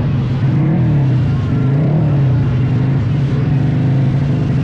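Drag-bike motorcycle engine running loudly and steadily, its pitch rising and falling gently a few times.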